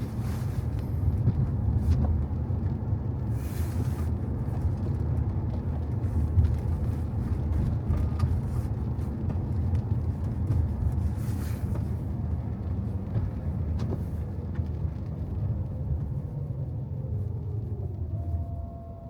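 Car driving on a wet road: a steady low rumble of road and tyre noise with a hiss from the wet tarmac. Two brief hissing swells come partway through, and the sound eases off near the end.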